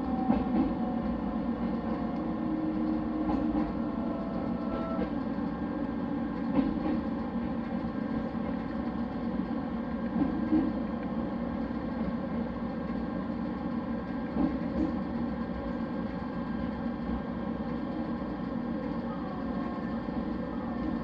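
Train running on the rails: a steady rumble of wheels and running gear, with a whine that drops slightly in pitch over the first few seconds and a few brief knocks.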